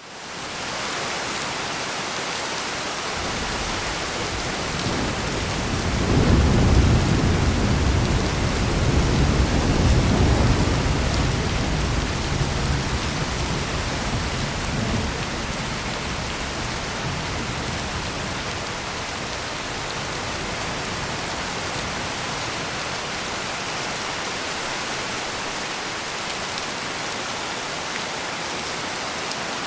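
Heavy rain pouring steadily, with a long roll of thunder that swells about five seconds in, is loudest for several seconds, and rumbles away by about fifteen seconds in.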